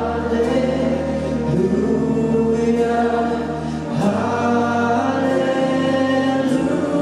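Live worship singing: voices hold a long, drawn-out 'hallelujah' over sustained low bass notes, the bass moving to a higher note about four seconds in.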